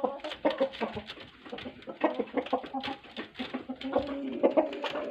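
A flock of chickens clucking and calling, with many short calls overlapping one another.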